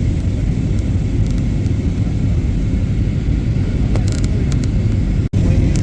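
Steady low rumble of an airplane, with a brief dropout about five seconds in.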